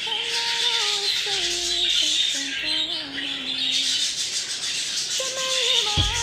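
Budgerigar chattering and warbling in a continuous high, scratchy stream.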